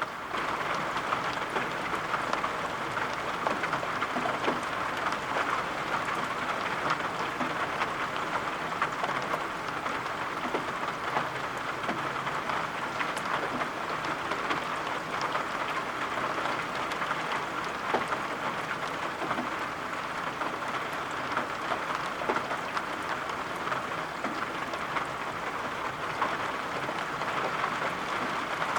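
Steady rain, an even hiss with many scattered drop taps.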